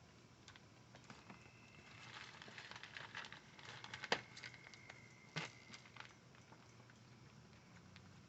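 Young puppies shifting and scrabbling in a kennel: faint pattering and scratching with scattered small clicks, and two sharper clicks about four and five and a half seconds in.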